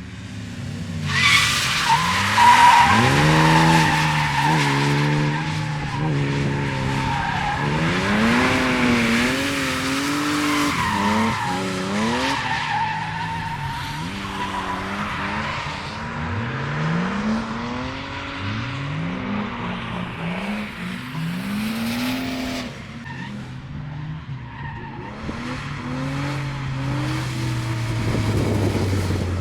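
Drift car sliding with its tyres squealing, the engine revving up and down over and over as the driver works the throttle through the drift. Near the end a car's engine note holds and falls steadily as it goes by.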